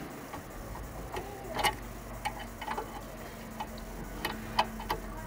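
Irregular sharp metal clicks and light knocks, about eight of them and loudest twice, from tools working on a car's front brake caliper, over a steady low hum.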